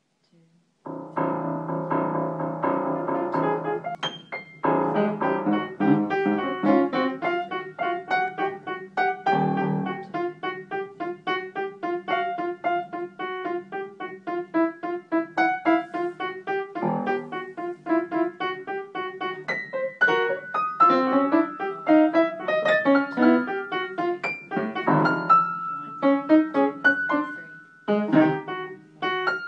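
Piano-like keyboard notes from a sonification of building energy data, in which each note stands for one kilowatt hour of energy used. It opens about a second in with a dense block of chords, then runs on as a fast, busy stream of notes.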